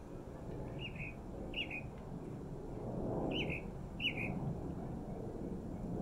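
A small bird calling: four short chirps in two pairs, the pairs about two seconds apart. A steady low rumble runs underneath.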